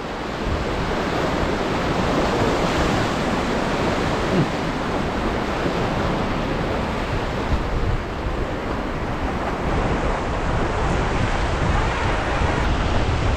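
Whitewater rapids rushing around a raft: a steady, dense wash of moving water, with wind buffeting the microphone.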